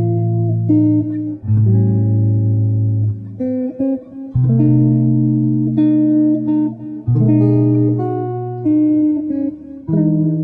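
Background music: an acoustic guitar plays chords that change every second or two.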